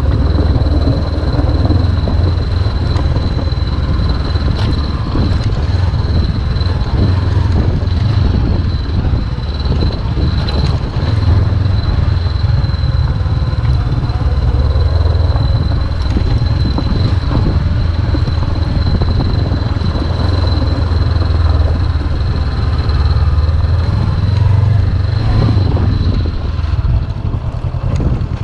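Honda CB500X's parallel-twin engine running steadily as the motorcycle is ridden, with a thin steady high whine above it.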